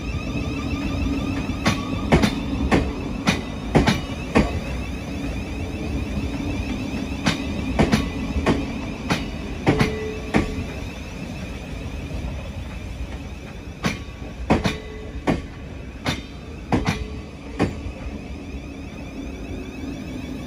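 Thameslink Class 700 electric multiple unit rolling slowly past along the platform. Its wheels click sharply over rail joints, mostly in pairs every second or two, over a steady low hum.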